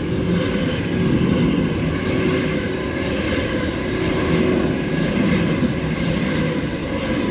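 Sydney Trains A set (Waratah) electric multiple unit passing through the station, a steady loud run of motor whine over the rumble of wheels on rail.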